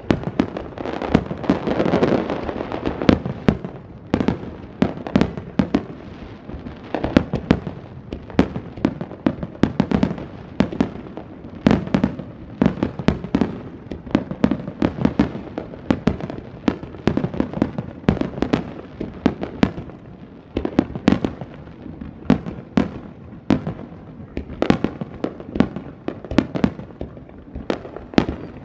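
Aerial firework shells bursting in a continuous, rapid barrage: many sharp bangs a second in irregular succession, with a denser, louder cluster about two seconds in.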